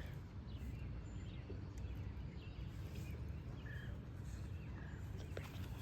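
Short bird chirps here and there over a steady low background rumble.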